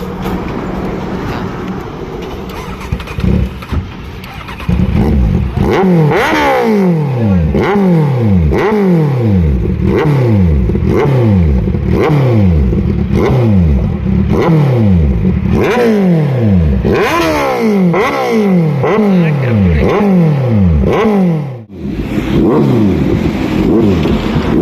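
Motorcycle engine revved over and over, a quick throttle blip roughly every second with the revs falling away after each one. It idles for the first few seconds and cuts out briefly near the end.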